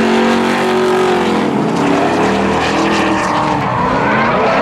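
Two drift cars in a tandem battle, their engines revving hard with the pitch rising and falling as the drivers work the throttle, and tyre noise from the cars sliding.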